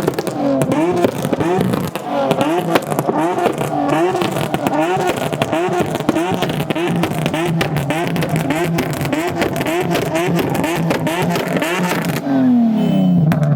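Car engine being revved over and over, its pitch rising and falling in quick blips about every three-quarters of a second, with sharp cracks and pops throughout. About 12 seconds in the revving stops and the pitch falls away as the engine drops back.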